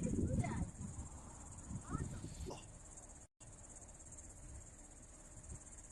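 Steady high-pitched chorus of insects, cutting out completely for an instant about three seconds in, then carrying on.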